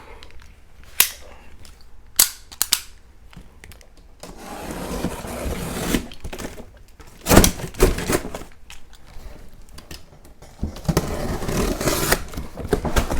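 Cardboard box being opened by hand: sharp snaps and knocks, with two longer stretches of rustling and scraping, around the middle and near the end.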